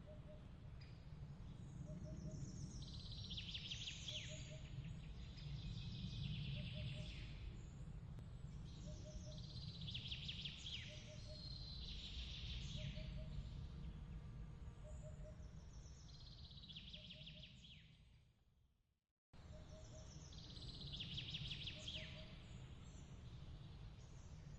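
Songbird trilling in short phrases every few seconds over a steady low rumble, with a soft triple chirp repeating about once a second. The whole bed fades out and drops to silence about three-quarters of the way in, then starts again abruptly, as when an ambience loop restarts.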